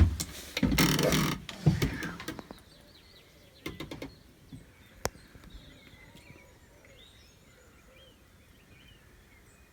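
A few knocks and thuds in the first two seconds or so, like a door or hatch being handled, then quiet with faint bird chirps.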